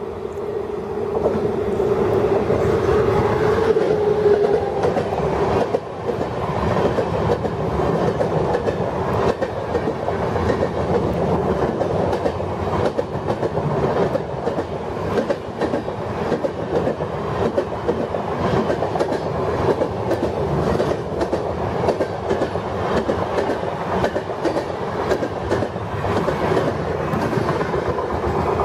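Indian Railways Rajdhani express passenger train running through a station at high speed. A steady horn tone sounds for the first few seconds as the train arrives, then the coaches' wheels clatter over the rail joints in a rapid rhythm as they pass close by.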